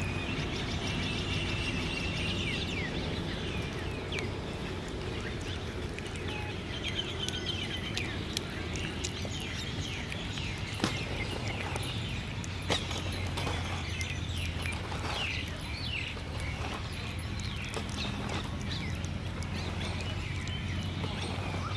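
Birds chirping over a steady low background hum, with a few short sharp clicks.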